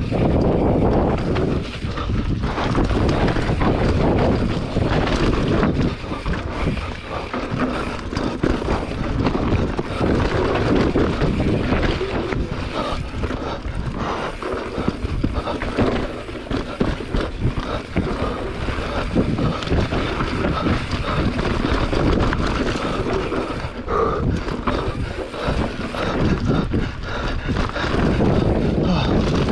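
Enduro motorcycle engine running hard on a trail, its loudness rising and falling with the throttle, with wind buffeting the microphone.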